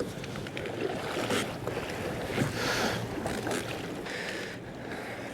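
Wind buffeting the microphone and choppy sea water lapping against a kayak's hull, with a few faint knocks.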